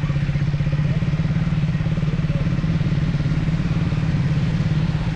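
Triumph Speed 400's single-cylinder engine running at a steady speed, its note holding even with no revving.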